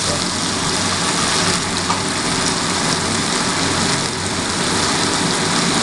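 Poppy seed paste and onions sizzling in hot mustard oil in a wok: a steady frying hiss.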